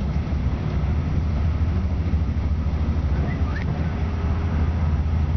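Steady low rumble of a Regional-Express train running along the line, heard from on board, with a brief faint high squeak about three and a half seconds in.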